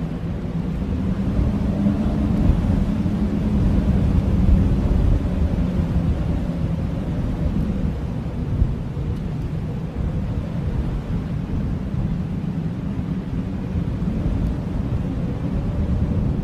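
Blizzard wind howling, a dense low rumble with a faint wavering pitch that swells and eases.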